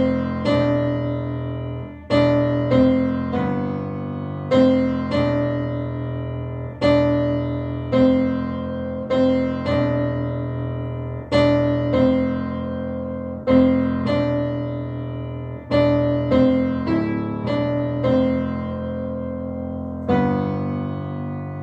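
Acoustic piano played slowly in slow, sustained chords, each struck and left to ring and fade before the next. The piece is a self-composed sad piece.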